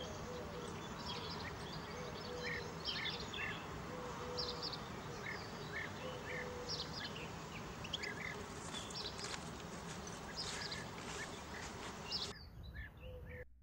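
Outdoor ambience with small birds giving many short, high chirps over a steady background noise and an on-and-off low hum. The background drops away sharply about a second before the end, leaving a few faint chirps.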